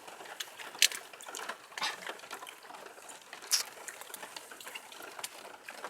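Wood bonfire crackling, with a steady hiss and a few sharp pops at irregular intervals.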